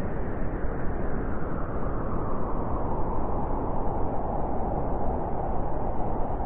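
Winter wind blowing steadily: a continuous rushing noise that surges a little, growing slightly brighter after a few seconds.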